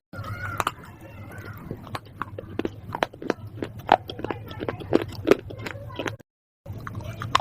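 Close-miked crunchy chewing and biting: a rapid, irregular run of sharp crisp crunches over a faint low hum, broken by a brief cut to dead silence near the end.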